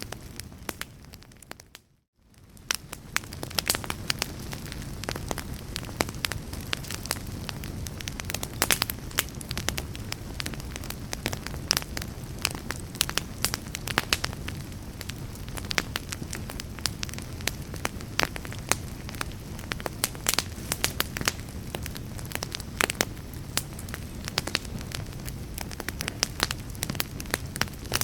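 Wood fire crackling, with frequent sharp pops over a low steady rumble. The sound fades briefly to near silence about two seconds in, then comes back.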